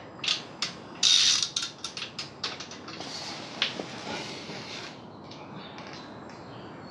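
Ratchet wrench clicking in several quick runs, mixed with metal clinks, as fasteners on the Honda Transalp's exhaust header pipes are worked; the clicks close up in the first half and are fainter and sparser near the end.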